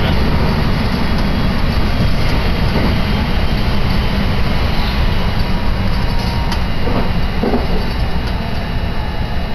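Electric commuter train running at speed, heard from inside the carriage: a steady low rumble of wheels on rails.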